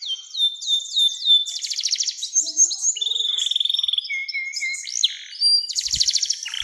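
Canary singing a long, varied song: a run of quick falling whistled notes, then fast rolling trills, with one long steady trill in the middle and more trills near the end.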